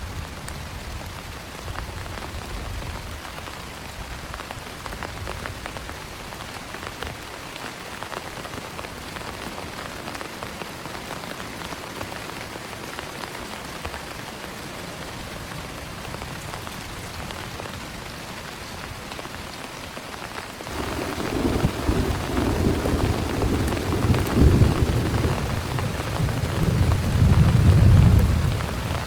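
Steady heavy rain, then about two-thirds of the way in a long roll of thunder rumbles in, swelling and loudest near the end.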